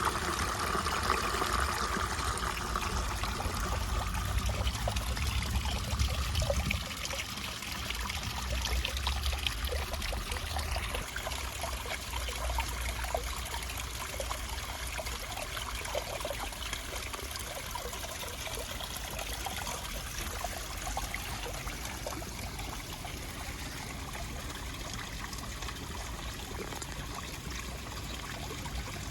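Water trickling and babbling steadily, like a small stream. A low rumble underlies it for the first six or so seconds, then drops away.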